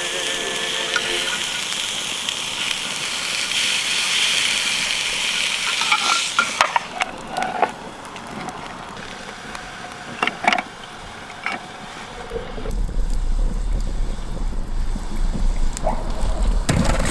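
Pork belly sizzling on a hot grill: a steady frying hiss that stops suddenly about six and a half seconds in. A few knocks and clatters of cookware follow, then a low rumble near the end.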